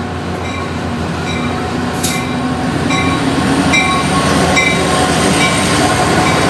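Metrolink F59PH diesel-electric locomotive pulling its train out, the diesel engine running under load and growing steadily louder. Over it, a short bell-like tone repeats about once every second.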